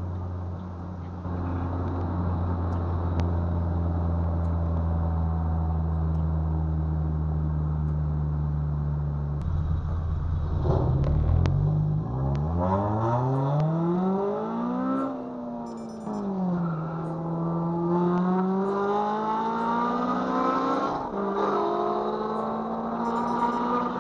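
Honda Civic Si's K20Z3 four-cylinder engine, breathing through a cold air intake, bored J35 throttle body and RBC intake manifold, heard from inside the car. It runs steadily at cruise for about ten seconds, then is pulled hard: the engine note climbs sharply, drops at an upshift, climbs again through the next gear and shifts once more near the end.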